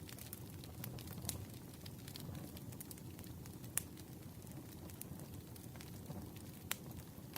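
Wood campfire burning: a steady low rumble with scattered sharp crackles and pops. The loudest pops come about a second in, near four seconds and near seven seconds.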